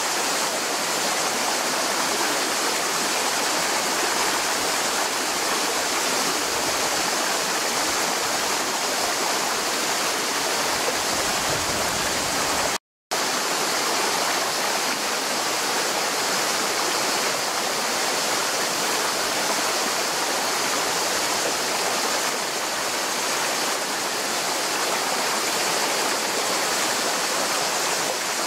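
Mountain stream running, a steady rush of water. The sound cuts out completely for a split second about halfway through.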